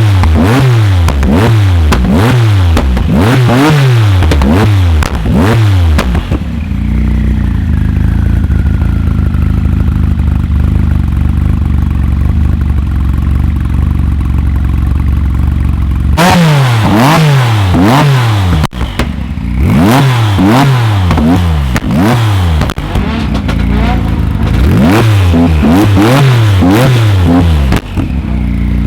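Tuned car engine revved hard in quick repeated blips, settling to a steady idle for about ten seconds with a slowly falling whine, then revved in repeated blips again.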